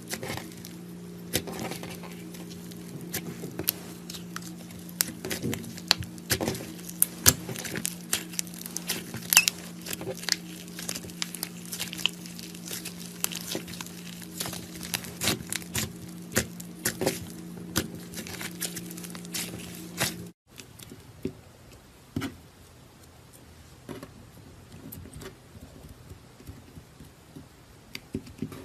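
Butter slime being poked, pressed and stretched by hand, giving many small sharp clicks and crackling pops over a steady low hum. About twenty seconds in the sound cuts, and after that the clicks are fewer and quieter.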